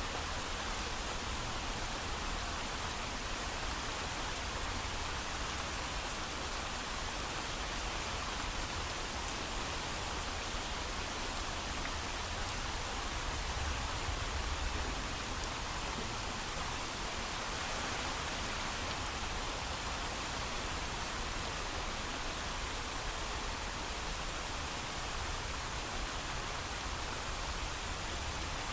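Steady heavy rain with no thunder, a dense even hiss of falling drops with a low rumble underneath.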